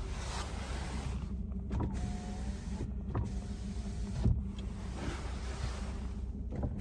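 1994 Mercedes-Benz S420's 4.2-litre V8 idling steadily while small electric motors of its power controls whir on and off, with several sharp clicks, the loudest about four seconds in.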